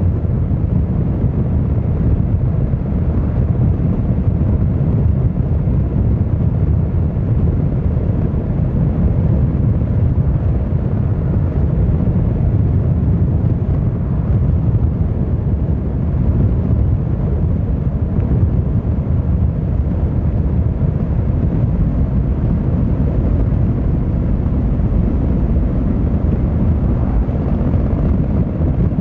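Yamaha XVZ1300 Royal Star's V4 engine and exhaust running steadily while riding, a low, even engine sound with no sharp revs or gear-change bursts.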